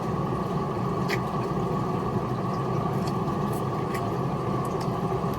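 Steady low mechanical drone of a running motor, with a few faint sharp clicks and smacks of eating over it.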